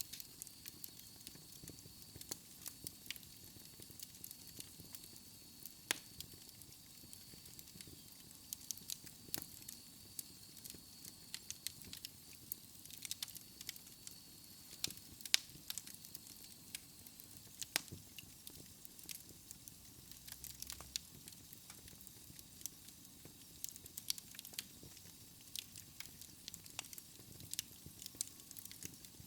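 Wood fire burning in a fireplace: irregular sharp crackles and pops over a soft steady hiss, with a faint thin high whistle through about the first half.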